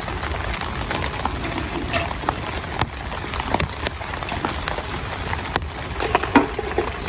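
Steady heavy rain falling, with scattered sharp taps at irregular moments.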